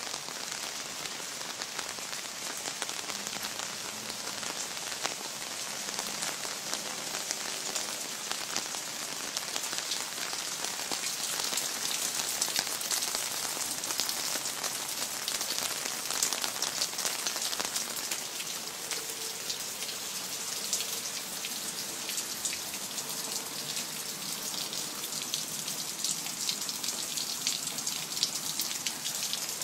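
Steady rain falling, a dense hiss of countless small drop impacts that swells slightly about halfway through.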